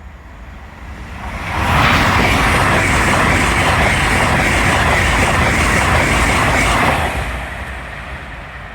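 A train passing over a level crossing: wheel and rail noise rises quickly and stays loud for about five seconds with a rapid clatter of wheels, then fades away as it passes.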